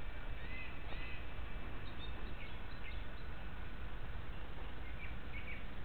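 Songbirds chirping: several short, separate chirps scattered through, over a steady outdoor background hiss.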